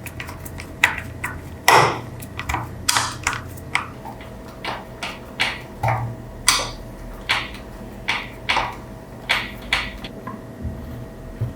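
Irregular sharp clicks and light taps of hard parts being handled in the workshop, a little under two a second, some with a brief ring, over a faint steady hum.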